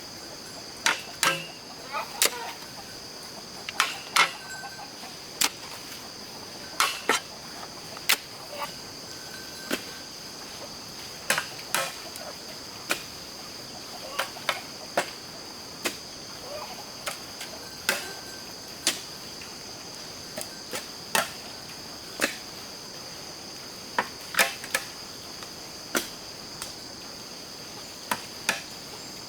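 Steady high-pitched chorus of crickets. Irregular sharp knocks or clicks sound over it, roughly one a second.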